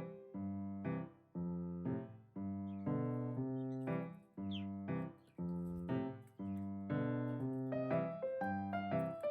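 Background piano music: repeated keyboard chords struck in a steady rhythm.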